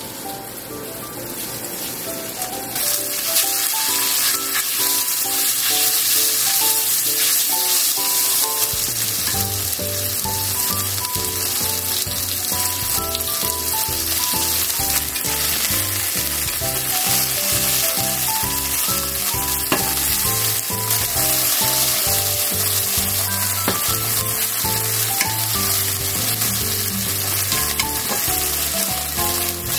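Flour-coated chicken tenderloin pieces sizzling as they fry in hot oil in a frying pan, the sizzle swelling over the first few seconds and then holding steady, with light taps of chopsticks as the pieces are turned. Light background music plays alongside, a bass line joining about nine seconds in.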